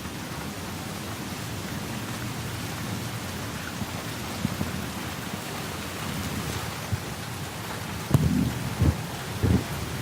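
Steady heavy rain with thunder rumbling low. About eight seconds in comes a sharp crack, followed by a few short, loud low rumbles.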